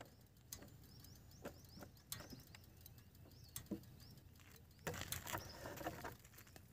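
Faint bird calls, one short chirp repeated over and over in the first few seconds, with a few soft clicks and knocks. A rustling noise comes in louder near the end.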